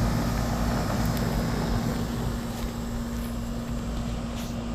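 Williamson heat pump outdoor unit running: a steady hum with one constant low tone over the whoosh of its fan.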